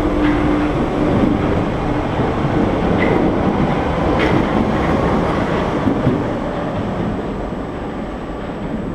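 Paris Métro MF77 train pulling out of the station, a steady rumble of wheels and motors with a few light clicks. It fades gradually from about six seconds in as the train draws away.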